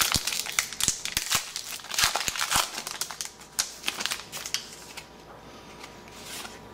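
Trading cards being handled and flicked through, with paper rustling and crinkling: a quick run of small flicks and rustles for about four seconds, then only faint handling.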